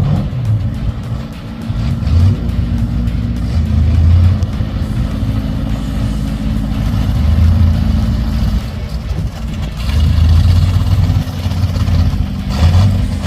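Classic cars' engines rumbling with loud exhaust as they roll in at low speed, the sound swelling a couple of times with blips of throttle.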